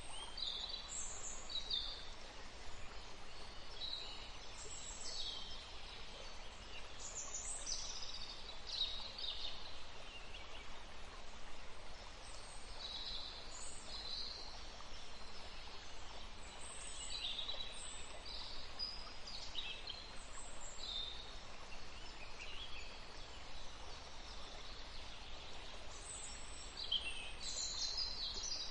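Forest ambience: several songbirds chirping and trilling on and off over a steady background hiss.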